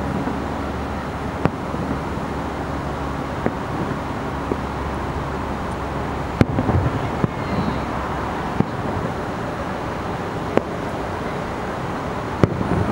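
Distant aerial firework shells bursting: six sharp reports about two seconds apart, over a steady low background rumble.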